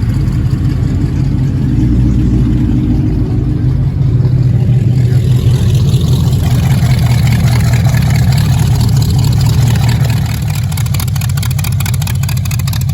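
A car engine running at idle, loud and steady, with a rapid choppy pulsing that grows stronger from about halfway through.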